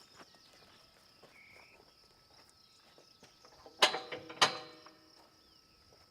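Two sharp metal clanks about half a second apart, each ringing briefly, as the loader's mounting pins are worked out of their brackets.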